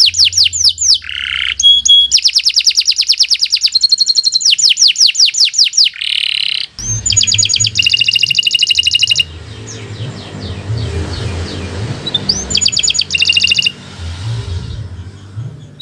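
Domestic canary singing long, rapid trills of repeated high, down-slurred notes, switching abruptly from one trill type to the next. From about seven seconds in the trills come softer, over a low steady hum.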